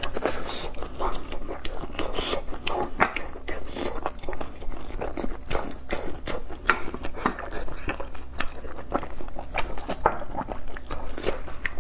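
Close-miked chewing of boiled sea snail (whelk) meat, with many short, irregular wet smacks and clicks of the mouth.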